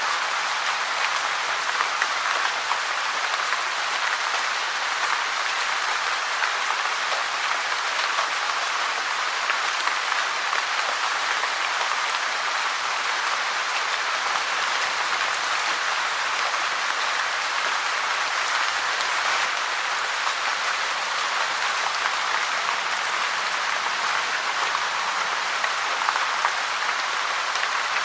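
Steady rain, a dense even hiss of many drops.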